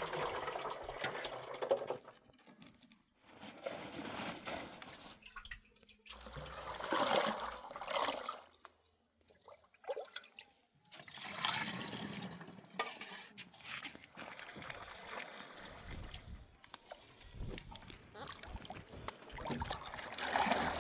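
Liquid pouring and trickling, in several separate stretches broken by short silent gaps.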